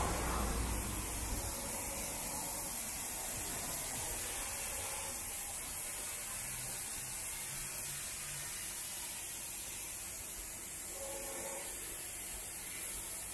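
Steady hiss of light rain and a wet street, with the low rumble of a car going by on the wet road in the first second or so.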